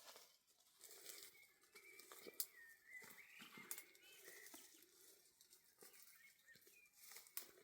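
Faint bird chirps, with scattered soft clicks and taps, one sharper knock about two and a half seconds in.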